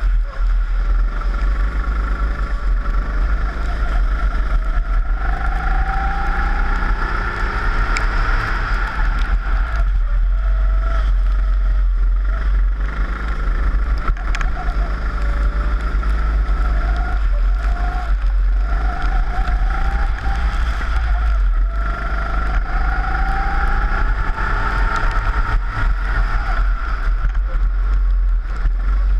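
Four-stroke rental kart engine heard from an onboard camera, its pitch rising repeatedly as it accelerates and dropping back as it lifts off, over a heavy low rumble.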